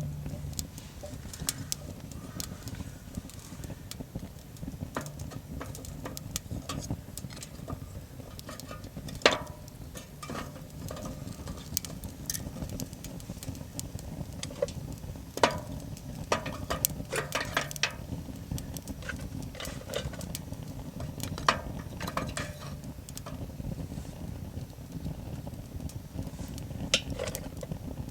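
Scattered clinks and knocks of metal camp cookware and utensils being handled, some ringing briefly, over a steady low rumble.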